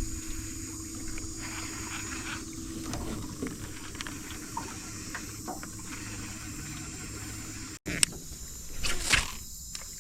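Water moving around a jon boat on a river, a steady wash with a faint low hum in the first few seconds; the sound drops out for an instant about eight seconds in.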